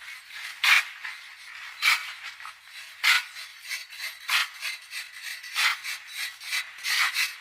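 Repeated scraping strokes of a hand tool, evenly paced at about one stroke every second and a bit, six in all.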